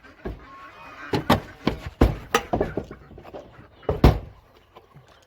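An irregular series of knocks and thumps, a dozen or so, the loudest about two seconds in and again about four seconds in.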